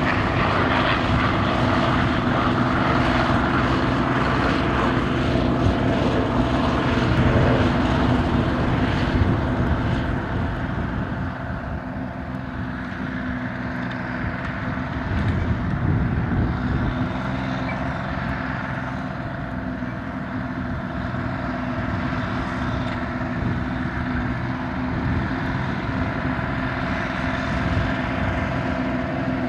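A large engine running steadily at an even speed, a little quieter after about ten seconds.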